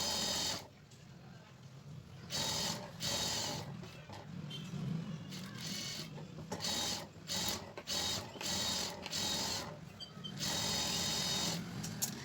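Sewing machine running in short stitching bursts, starting and stopping about eight times, with the longest run near the end.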